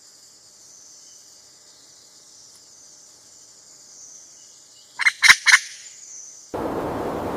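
A steady, high insect drone, broken about five seconds in by three short, loud fowl-like calls from a pheasant. Near the end a loud crackling, crunching noise cuts in suddenly.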